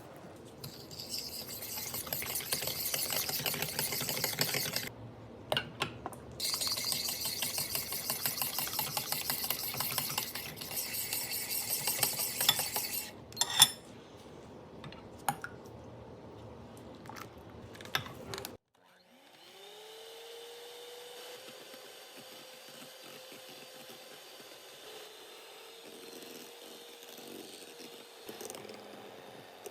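Electric kitchen mixer running at high speed, with a short stop about five seconds in, then running again until about halfway. A few sharp clinks and knocks follow, then a quieter steady hum.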